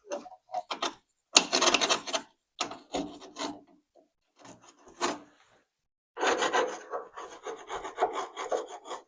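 A hand tool scraping loose, rusted undercoating off a truck's underbody, a series of rasping scrapes. There are runs of strokes at the start, a pause of about two seconds in the middle, then a longer run of quick strokes.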